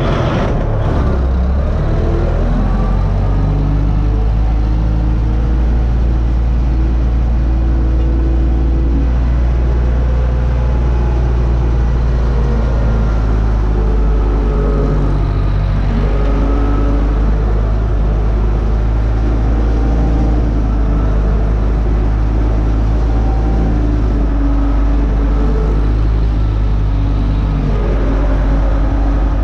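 UTB U650 tractor's four-cylinder diesel engine running steadily under load while pulling a disc harrow across a field, a continuous loud drone whose pitch wavers slightly.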